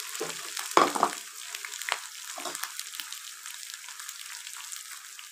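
Freshly added chopped tomatoes sizzling in hot oil with browned onions. A wooden spatula scrapes and stirs them against the pan a few times in the first three seconds, the loudest stroke about a second in.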